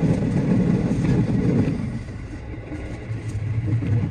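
Running noise of a JR West 207 series electric commuter train heard from inside the driver's cab: a steady low rumble that drops in loudness about two seconds in and swells again near the end.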